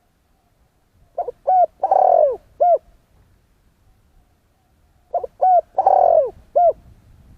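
Spotted dove cooing: two phrases a few seconds apart, each made of two short coos, a longer, louder drawn-out coo, then a short final coo.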